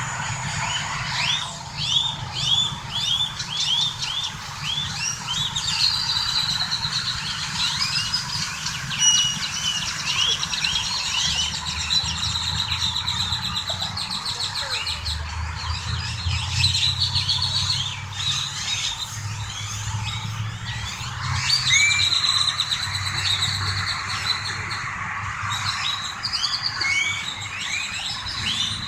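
Birds chirping and calling, many quick upward-sweeping chirps and short trills in a busy chorus, over a low steady hum of idling vehicle engines.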